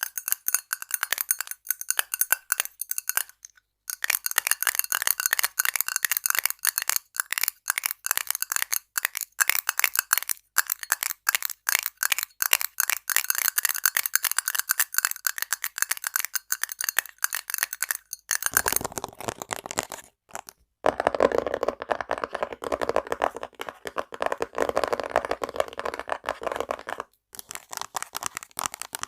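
Fast, close-up ASMR tapping on assorted hard items. For the first two-thirds the taps land on something that rings with high, clear tones, broken by a short pause; after that the tapping moves to a duller, lower-sounding item.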